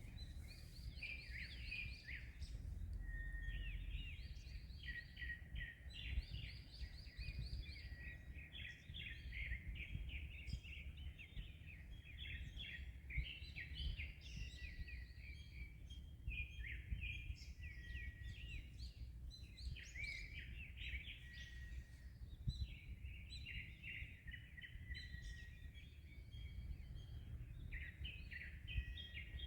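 Many small birds singing and calling at once, a continuous chatter of quick chirps and trills, over a steady low rumble of wind and sea waves.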